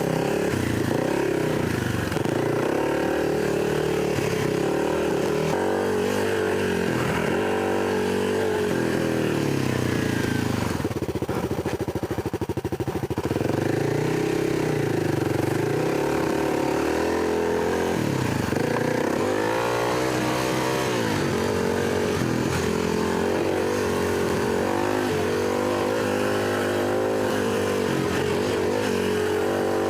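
Dirt bike engine under way on a trail, its pitch rising and falling with the throttle. About eleven seconds in it drops to a low chugging for a couple of seconds, then picks up again.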